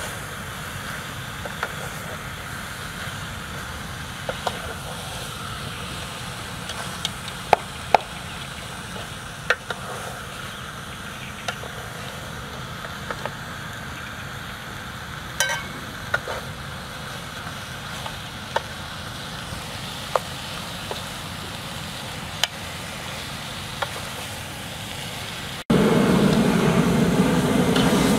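Chicken pieces sizzling in a pot over a fire while being stirred with a wooden spatula, with scattered sharp clicks and knocks. Near the end the sound cuts abruptly to a much louder, denser frying sound.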